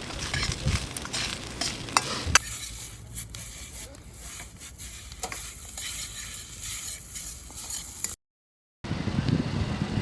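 Food sizzling and being stirred in a wok, a dense crackle for the first couple of seconds, then a sudden change to a quieter hiss with scattered clicks. The sound drops out completely for a moment near the end.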